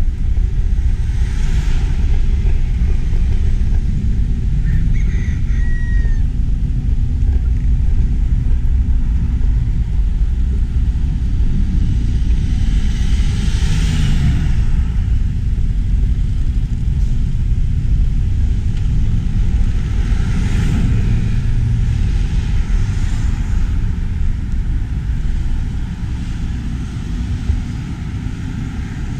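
Wind rumbling steadily on a GoPro's microphone while cycling. A few louder swells of rushing noise come and go, about two seconds, fourteen seconds and twenty-one seconds in.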